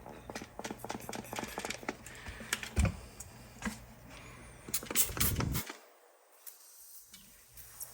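Irregular small clicks and crackles over a low steady hum, with louder clusters about three and five seconds in; the sound drops away for about a second after that.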